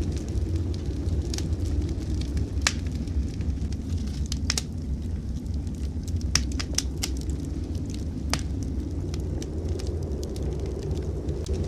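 Wood fire crackling in a fireplace: irregular sharp pops and snaps, a cluster of them around the middle, over a steady low rumble.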